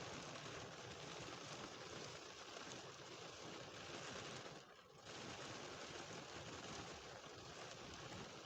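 Light rain falling as a faint, steady hiss, with a brief lull about five seconds in.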